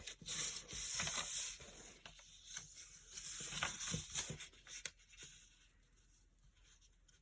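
A sheet of paper being folded and creased by hand, with rustling and scraping and a few sharp ticks as the corners are folded into the middle. It dies away to near silence in the last couple of seconds.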